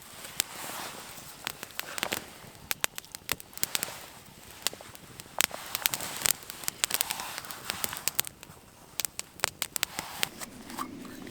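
Campfire crackling, with irregular sharp snaps and pops over a soft hiss.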